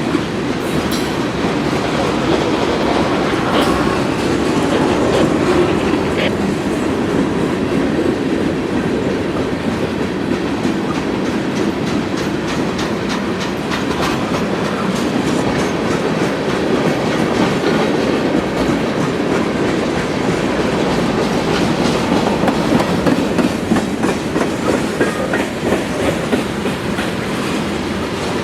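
Freight train cars rolling steadily past, steel wheels on rail, with a continuous rumble and clickety-clack of the wheels over rail joints.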